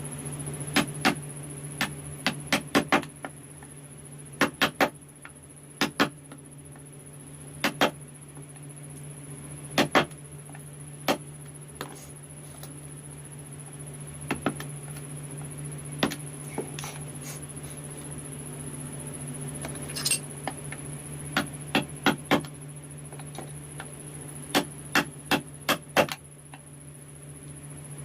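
Chisel struck with a mallet while carving wood: sharp taps in irregular clusters of two to four, over a steady low hum.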